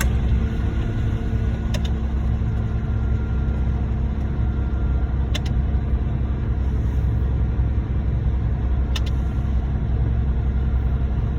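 Diesel engines of a concrete mixer truck and a concrete pump truck running steadily in a low drone. A faint click comes about every three and a half seconds, three times.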